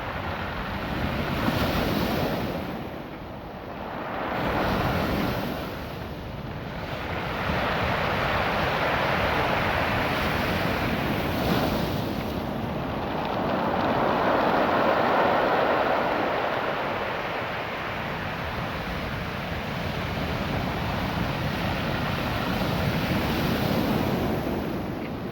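Ocean surf washing up and drawing back over a beach of small rounded stones, the noise swelling and fading every few seconds.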